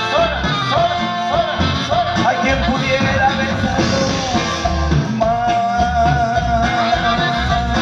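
Live band music with singing over a steady bass beat, with a long held note from about two-thirds of the way in.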